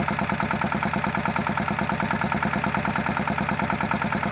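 Small diesel engine of a mini bike idling steadily with a rapid, even beat.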